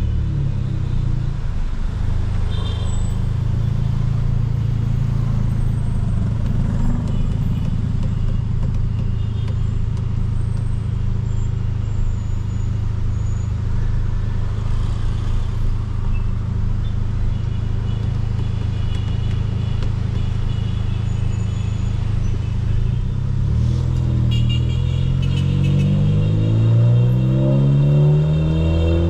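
Volkswagen Polo GTS's turbocharged 1.4 four-cylinder, Stage 2 tuned with a sport exhaust, running at a steady engine speed. About 23 seconds in it accelerates, the engine note rising in pitch and getting louder, then dropping sharply right at the end as the throttle lifts or a gear changes.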